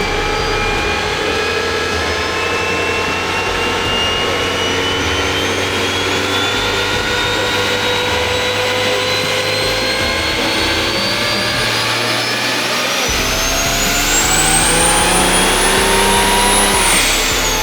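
Built pickup engine with compound turbochargers making a full-power pull on a chassis dyno. The engine note and a high turbo whistle climb steadily in pitch, the whistle rises steeply near the end, then both drop sharply as the throttle closes.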